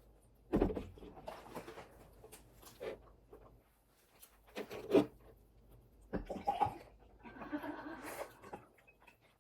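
A few sharp knocks and clicks, the loudest about half a second in and about five seconds in, with a stretch of rustling near the end.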